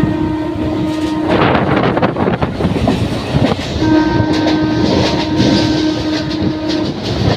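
Indian suburban electric local train running with a steady rumble and clatter of the wheels on the rails, its horn sounding twice: a short blast at the start, then a longer steady blast of about three seconds from a little before halfway.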